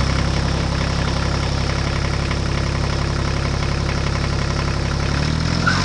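Tractor engine idling steadily, its pitch rising slightly near the end as it picks up revs.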